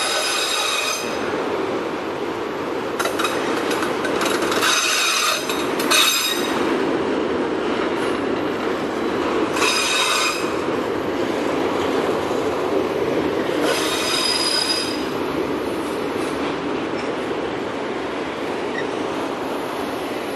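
Freight train of autorack cars rolling past with a steady rumble, and a high-pitched metal squeal from the wheels that comes and goes about four times.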